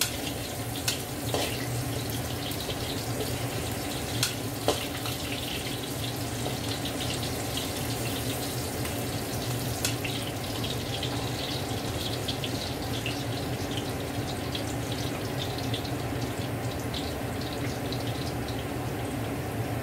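Food sizzling in hot oil in a large metal wok as it is stirred with a metal spatula, with a few sharp clanks of the spatula against the wok near the start and once about halfway through.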